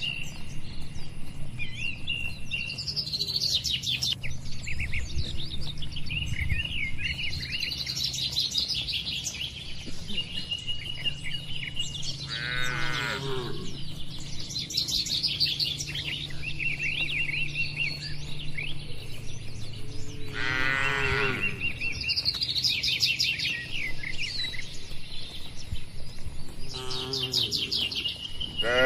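Small birds chirping continuously, with three short, falling calls from cattle about a third of the way in, past halfway and near the end.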